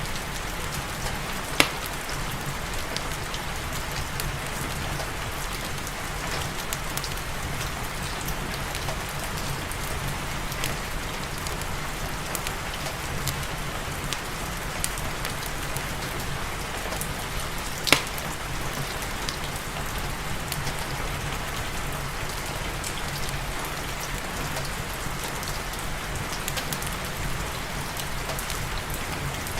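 Steady rain falling, an even hiss of drops on surfaces, with scattered sharp clicks and two louder pops, one near the start and one just past the middle.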